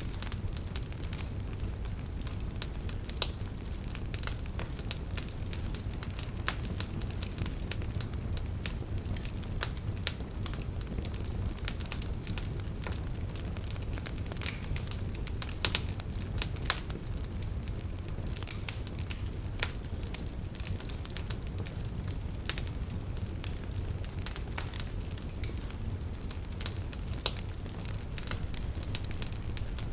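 Wood fire burning in a fireplace: a steady low rumble of flames with continual irregular crackles and a few sharper pops from the burning logs.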